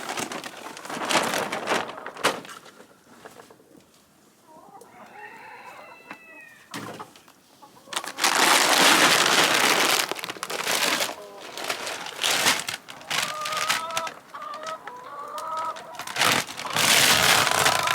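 Chicken feed poured from bags into a barrel, a loud rushing pour at the start, again about eight seconds in and near the end. Between the pours a rooster crows faintly and chickens cluck.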